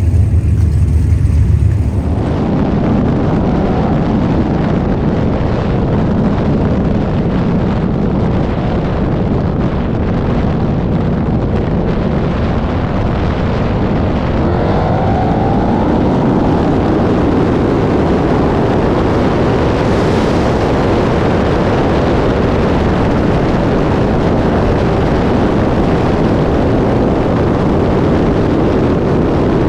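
Loud, continuous car engine and exhaust noise, with a short rising rev about halfway through.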